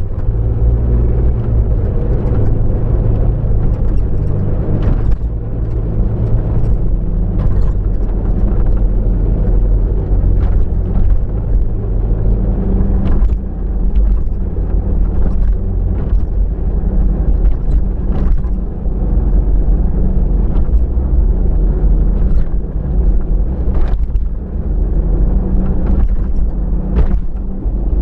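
Road noise inside a moving car: a steady low rumble of engine and tyres, with scattered light clicks every second or two.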